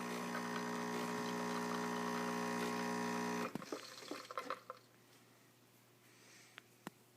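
Automatic espresso machine pumping out an espresso shot: a steady pump hum with coffee running into the cup, which cuts off about three and a half seconds in as the shot ends, followed by a few drips.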